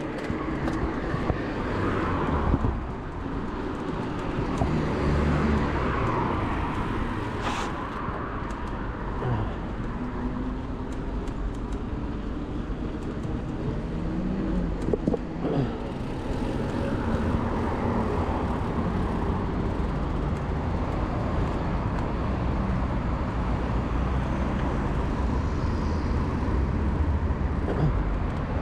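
Urban road traffic, with cars passing and their engine notes rising and falling over a steady low rumble.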